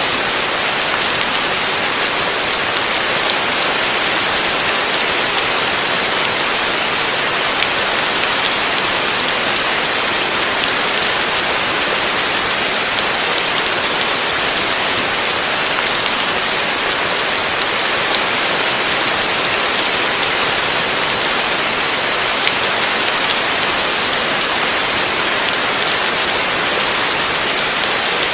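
Heavy rain falling steadily on a roof: a dense, even hiss with a few sharper drop hits scattered through it.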